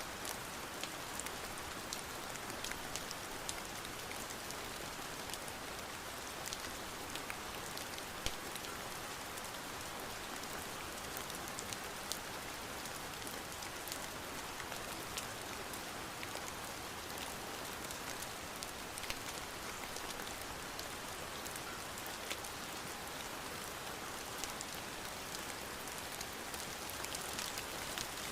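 Steady rain falling, a constant hiss with many small, scattered drop ticks tapping on a window.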